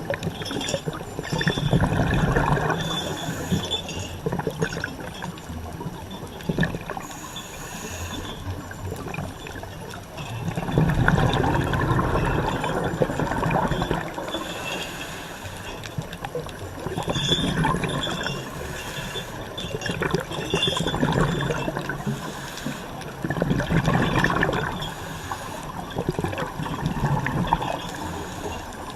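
Rushing water, its noise swelling and easing every few seconds.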